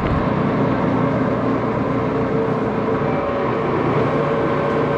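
Axelson lathe running at a steady speed: a constant mechanical hum with a few steady tones over it.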